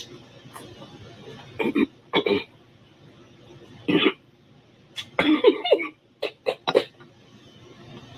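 A woman's short bursts of mouth and throat sounds, like coughs and throat clearing, in quick clusters over a steady hiss.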